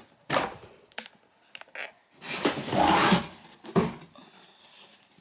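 Packaging being handled while a tripod is unpacked: a run of short rustles and swishes, the longest about halfway through.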